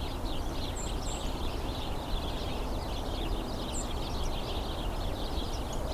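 A flock of house sparrows chattering from cover: many overlapping short chirps run on steadily, with a few thin high notes mixed in, over a low steady background hum.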